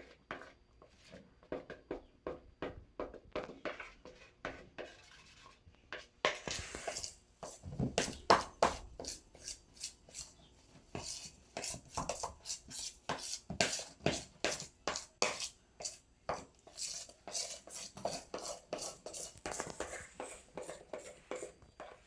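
A spoon beating thick flour-and-egg fritter batter in a bowl: a steady run of scraping strokes, about two a second.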